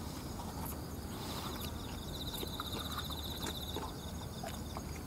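A person chewing a mouthful of sticky glutinous rice from a can, with small wet clicks of the mouth.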